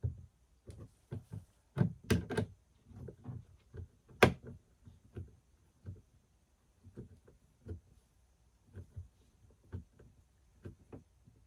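Irregular knocks, taps and thunks as kayak outfitting parts are handled and fitted in the boat, with a cluster of knocks about two seconds in and one sharp, loud knock a little after four seconds, then softer, sparser taps.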